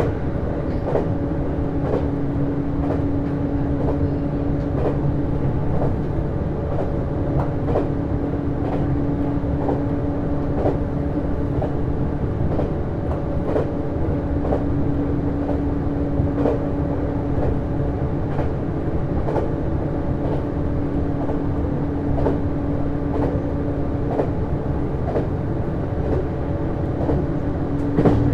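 JR East HB-E210 series hybrid diesel-electric railcar running at a steady speed, heard from inside the car: a steady drive hum, with the wheels clicking over rail joints at irregular intervals.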